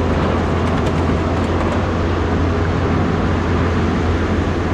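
Pickup truck engine running steadily with a low, even hum under dense noise, with a few faint ticks about a second in.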